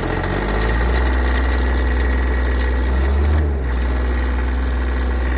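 Miller 350 diesel welder's engine idling steadily just after a cold start, a deep even hum.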